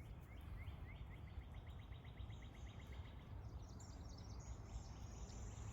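A songbird singing a run of short repeated notes that speed up into a trill, followed by a higher, thinner run of notes, over a low steady outdoor rumble such as wind.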